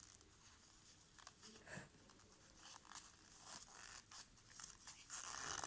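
Faint scraping and crackling with scattered small clicks as a glued-in speaker is pried out of a plastic headphone earcup, getting denser and louder near the end.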